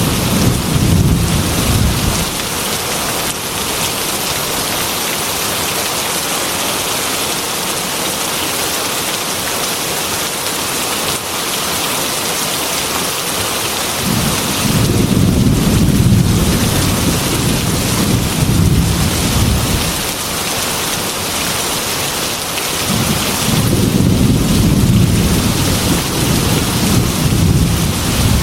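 Heavy rain beating steadily on a glass window, with thunder rumbling three times: a roll fading out about two seconds in, a long one starting around the middle, and another near the end.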